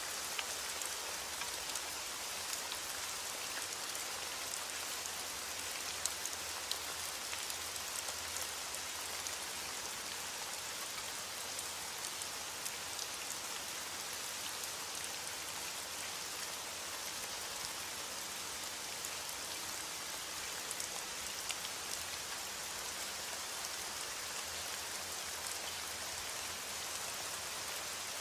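Heavy rain falling on a window glass, a steady hiss with scattered sharp ticks of drops.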